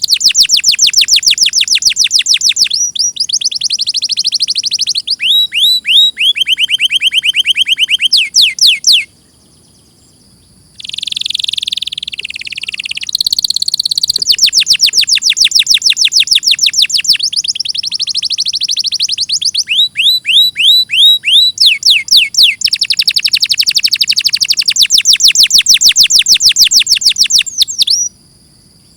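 Domestic canary singing long rolls of fast repeated notes, switching from one trilled phrase to the next at different pitches and speeds. The song breaks off briefly about nine seconds in, then resumes.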